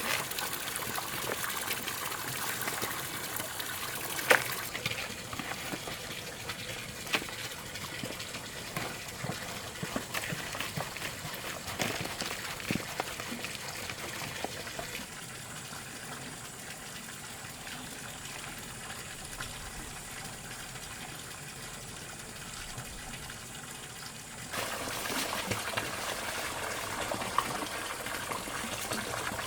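Water running and splashing, with scattered knocks and clicks, a sharp one about four seconds in. The sound drops a little quieter about fifteen seconds in and comes back up near twenty-five seconds.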